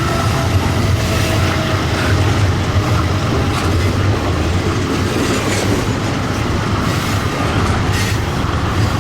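Diesel-hauled freight train passing close by: a steady low engine rumble, with wheels clicking over the rails now and then.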